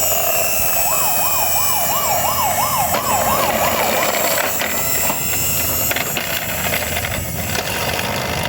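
Toy police car's electronic siren wailing up and down quickly, about two and a half cycles a second, for about three seconds. It is followed by a few seconds of noisy clatter with scattered clicks.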